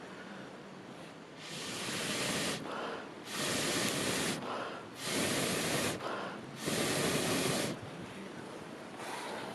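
Four long puffs of air blown onto a campfire, about a second each at an even pace, such as through a fire-blowing pipe to liven the embers.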